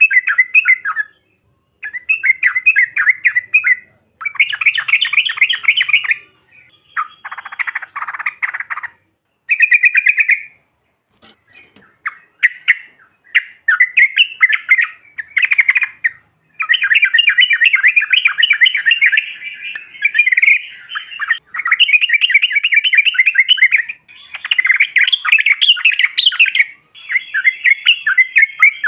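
Yellow-vented bulbuls (trucukan) chattering: fast, bubbly call phrases in bursts of one to four seconds with short gaps, some running on unbroken for several seconds. This is the long rolling 'ropel' chatter used as a lure call.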